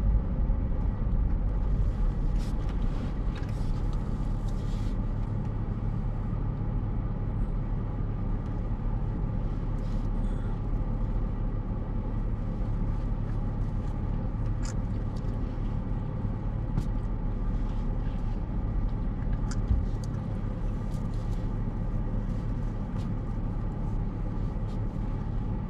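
Steady low hum of a car's engine heard inside the cabin, with a few faint clicks now and then.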